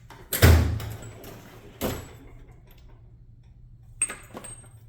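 Tools being handled in a metal tool chest while hub sockets are fetched: a heavy bang and clatter about half a second in, a second knock near two seconds, then a few light metallic clinks with a faint ringing near the end.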